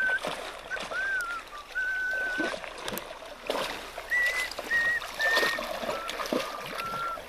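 A person whistling a tune, a string of short held notes with small bends and gaps, over the steady trickle of a creek.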